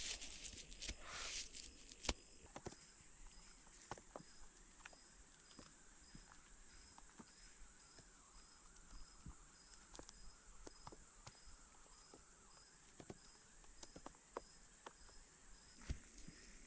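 Insects chirring in the woods: a steady high-pitched buzz, with a thinner chirp repeating about three times a second. There are scattered small clicks, and some rustling in the first couple of seconds.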